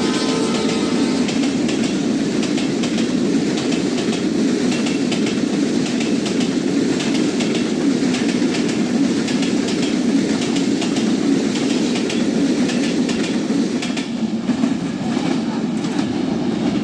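Train running along the track: a steady rumble with many clicks of the wheels over the rail joints.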